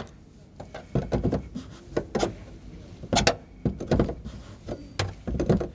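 Fuel pump module lock ring being unscrewed with a lock-ring spanner tool once its torque has broken: a series of irregular clicks, knocks and scrapes of tool on ring.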